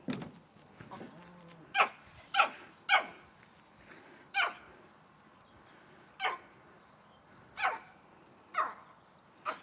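Dogs giving alert barks, the kind that announce someone at the door: about nine short single barks at uneven gaps of half a second to two seconds.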